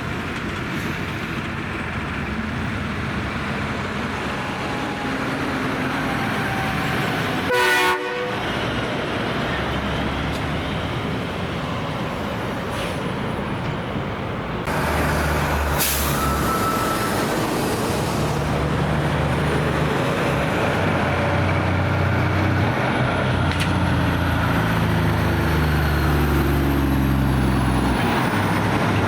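Heavy truck traffic, with one short, loud horn blast about a quarter of the way in. From about halfway a diesel truck engine comes in close, pulling and getting steadily louder.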